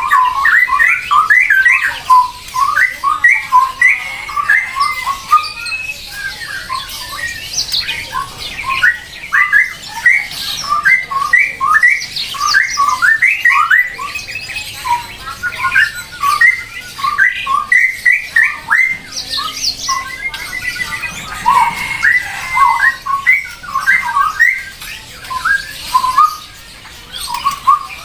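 Birds calling: a continuous, busy stream of short, quick notes, several overlapping at once.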